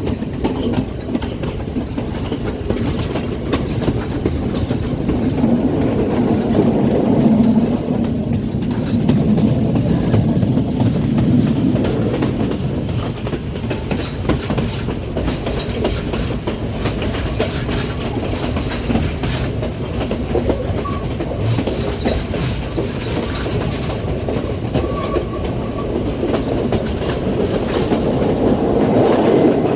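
Passenger train running on the line, a steady rumble with the clickety-clack of its wheels over the rail joints, swelling a little about seven seconds in and again near the end.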